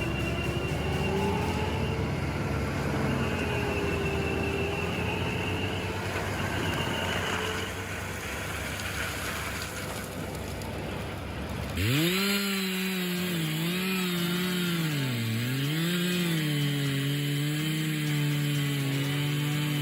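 Chainsaw engine running at high revs while cutting wood. About two-thirds of the way through, the sound changes abruptly to a clearer, high engine note whose pitch sags and recovers several times as the chain bites into the wood.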